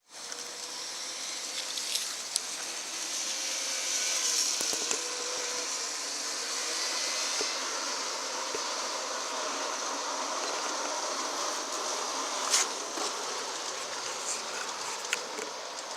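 G scale model diesel locomotive running along its track, its electric motors giving a steady buzzing whir, with a few sharp clicks. The engine is running fine.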